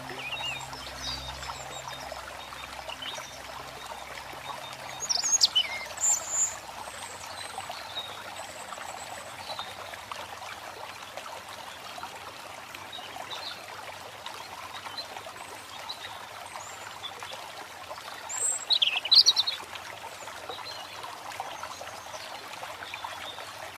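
Birds calling over a steady rush of flowing water. Two loud sweeping calls stand out, about five seconds in and again near nineteen seconds, with fainter chirps between.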